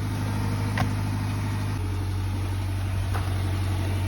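Car engine idling with a steady low hum; its pitch steps down slightly a little under halfway through.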